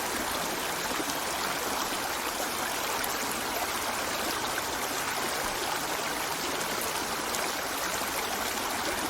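River water flowing steadily over stones, a continuous even rushing with light trickling and gurgling.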